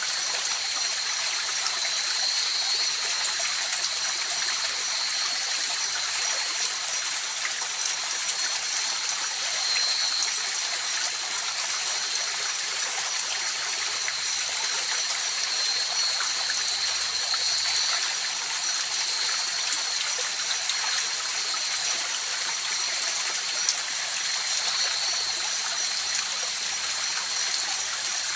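Mountain river flowing over rocks, a steady rushing hiss with no let-up. A thin, steady high-pitched tone sits above the water throughout.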